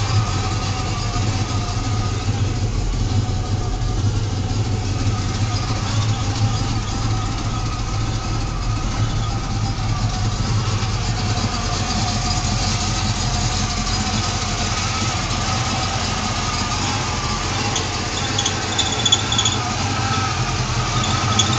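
383 cubic-inch small-block V8 stroker engine idling steadily, a low even hum.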